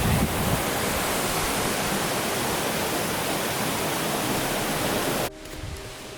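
Rushing water, a steady, even hiss spread across all pitches, which cuts off suddenly about five seconds in, leaving a much quieter background.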